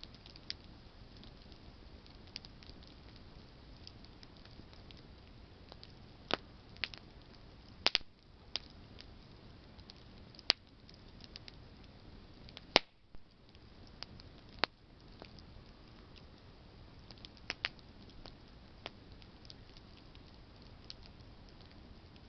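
Wood campfire burning with a steady low hiss and irregular sharp pops and crackles from the burning branches, a handful of louder snaps standing out in the middle.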